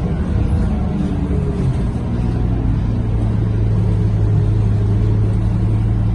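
Scania K230UB bus engine running, heard from inside the bus. Its pitch changes over the first two seconds, then settles into a steady hum at one pitch.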